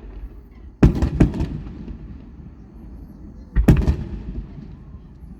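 Fireworks exploding: two loud booms, about a second in and just before four seconds, each followed by a short run of smaller cracks and a fading rumble.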